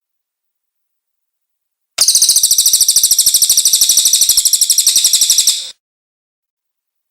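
Cililin bird singing a rapid, high-pitched trill of evenly repeated notes, about eight a second, lasting nearly four seconds from about two seconds in.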